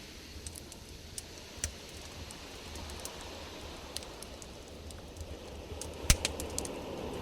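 Campfire wood crackling, with scattered sharp pops and one loud pop about six seconds in, over a low steady rumble.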